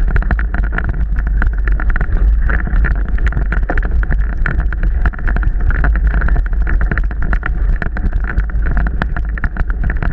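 Mountain bike ridden over rough, wet trail: a constant low wind rumble on the microphone with a dense run of sharp knocks and rattles from the bike jolting over the ground.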